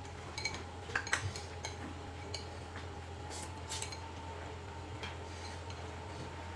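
Light, scattered clinks and taps of utensils against dishes while eating, most of them in the first four seconds.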